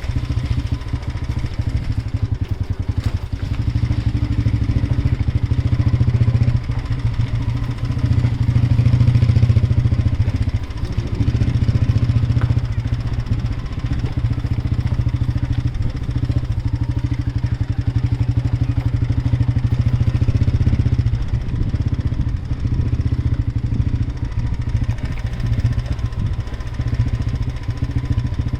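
A vehicle running steadily, a continuous low rumble that swells and eases every few seconds.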